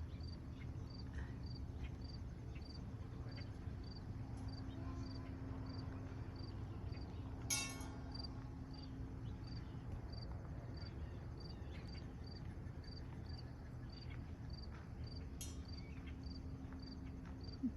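Crickets chirping steadily, about two chirps a second, over a low steady rumble, with a single sharp click about halfway through.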